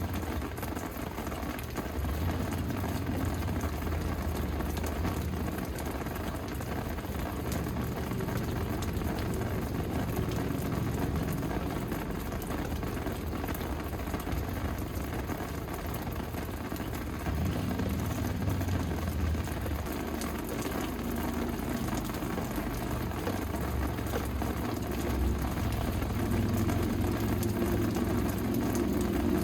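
Steady rain falling, an even hiss, with a low rumble underneath that swells about two seconds in, again about halfway through and near the end.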